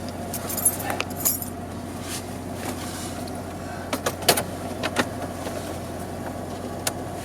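A vehicle engine running steadily at idle, with irregular sharp clicks and light metallic jingles from small parts being handled, the loudest about four seconds in.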